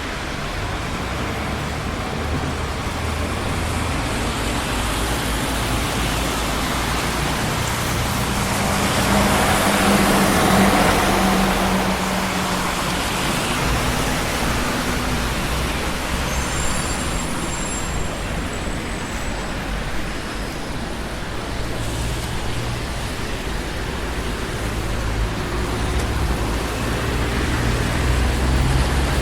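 Busy city street traffic: a continuous rumble and hiss of passing cars, swelling as a louder vehicle goes by about ten seconds in.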